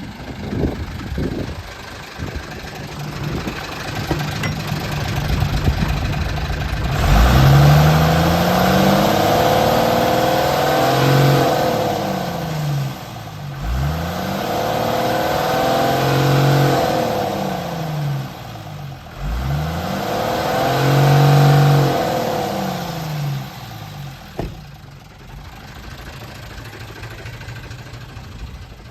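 Hino H07D inline-six diesel engine of a 1992 Hino Ranger truck idling, then revved up and let fall back three times, each rev held for a few seconds, before settling back to a steady idle.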